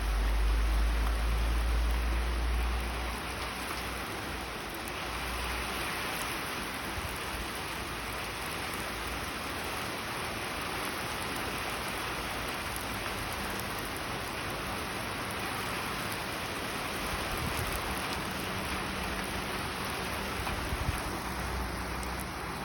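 Steady rain falling and pattering on surfaces, with a low rumble of thunder during the first few seconds.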